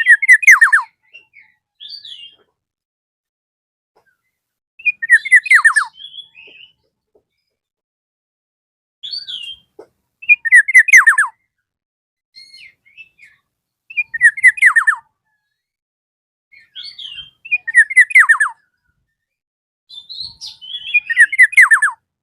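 Black-naped oriole calling over and over: six loud phrases about every four seconds, each a quick run of falling notes, with softer single notes between.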